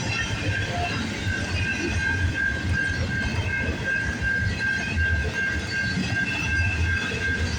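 Intermodal freight cars rolling past at track speed: a steady low rumble with irregular wheel clatter, and a steady high-pitched wheel squeal held throughout.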